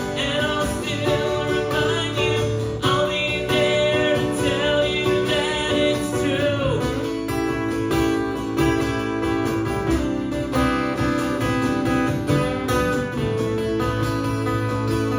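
Live acoustic song: acoustic guitar playing under a singing voice. About two-thirds of the way through the first half the voice slides down and drops out, leaving the guitar carrying on.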